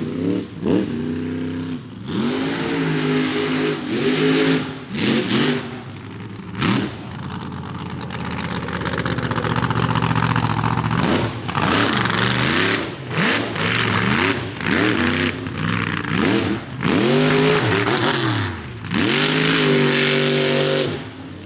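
Ford mega truck's engine revving hard again and again, its pitch climbing and falling with each burst of throttle. A steadier, noisier spell of sustained throttle comes around the middle.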